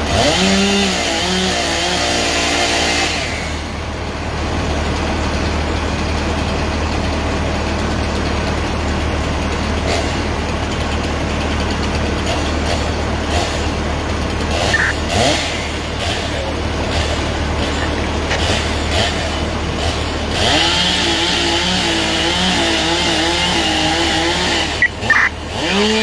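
Vehicle engine idling steadily with a constant low hum, with pitched, voice-like sounds heard briefly at the start and again near the end.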